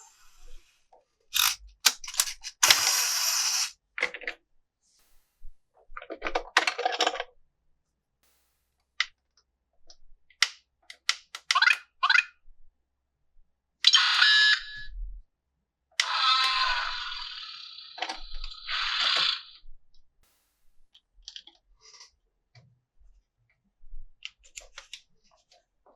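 Plastic toy parts and packaging being handled during an unboxing: scattered clicks and rustles, with several longer scraping or rustling bursts, the longest around the middle.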